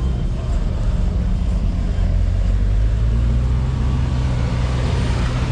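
Car engine running close by: a deep, steady low note that gets louder about two seconds in.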